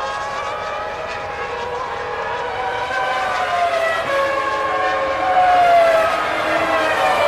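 Several Formula One cars' 3-litre V10 engines running at high revs. Several engine notes overlap, their pitches sliding up and down with the throttle and gear changes, and they grow louder from about three seconds in.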